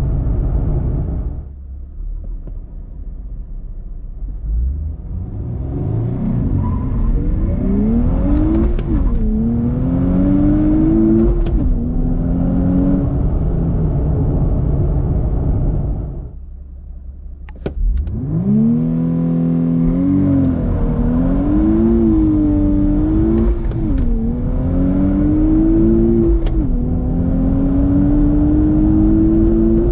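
Nissan Z's twin-turbo V6 accelerating hard up through the gears, in two runs. Each time the revs climb and then fall back at an upshift. A short lull comes between the runs.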